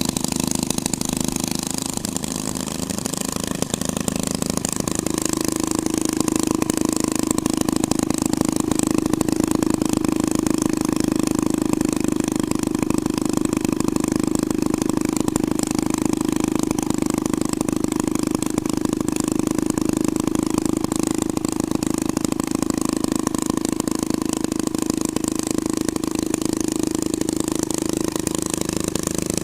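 Hot rod twin-engine motor running steadily. About two to five seconds in, its pitch shifts briefly, and then it settles into a slightly louder, even run.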